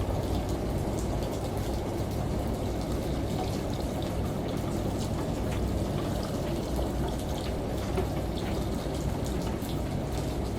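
Steady falling-water noise, like rain or shower spray, with a low rumble beneath and scattered drip ticks.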